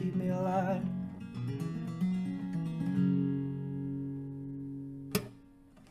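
Acoustic guitar strumming the closing chords of a song, with the tail of a sung note wavering in vibrato at the start. The last chord rings out and fades for about two seconds, then a sharp click a little past five seconds in.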